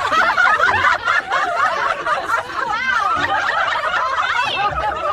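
A crowd laughing together, many voices overlapping, in response to a punchline.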